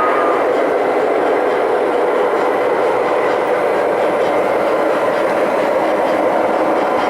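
O-scale model train running along the track: a steady rolling sound with a faint hum.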